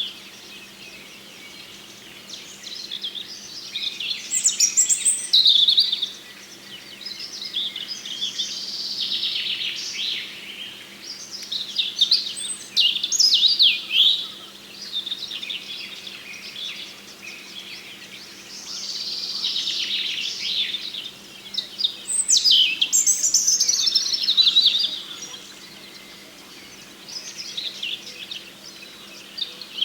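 Small songbirds singing, with phrases of high chirps and falling trills every few seconds and short pauses between them. A faint steady hum runs underneath.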